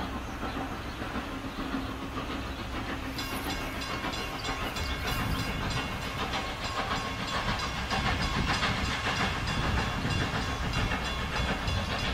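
A train running on rails: a steady rumble and hiss with a fast, even clatter of wheels that sets in a few seconds in and grows a little louder.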